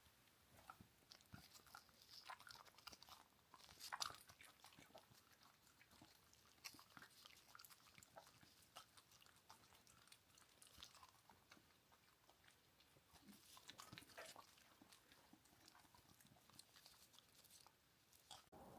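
Faint, irregular chewing and crunching, a scatter of small clicks with one louder crunch about four seconds in.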